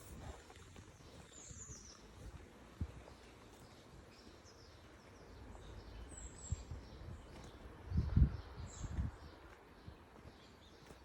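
A few short, high bird chirps over steady outdoor background noise, with a brief cluster of low thuds about eight seconds in.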